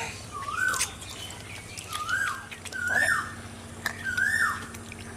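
A bird calling repeatedly: four short calls, each rising, holding a moment, then dropping.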